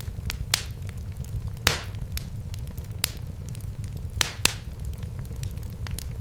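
Wood fire crackling in a fireplace: a steady low rumble of flames under frequent sharp pops and snaps, several of them loud, the loudest at about four and a half seconds.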